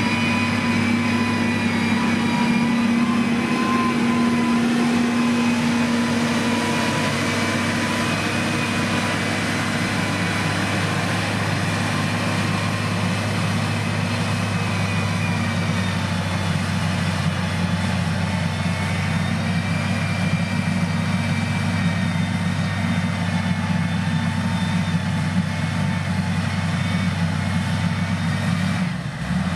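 Heavy diesel engine of a motor grader running steadily, with a steady high whine over the engine hum.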